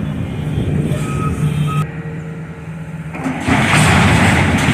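Heavy demolition machine's engine running, with two short warning beeps about a second in. About three seconds in comes a loud crash and rumble of the building's structure being knocked down.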